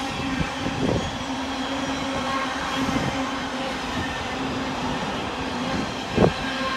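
Container freight train's wagons rolling past on the track: a steady rumble with a few knocks from the wheels, and one sharp, loud knock about six seconds in.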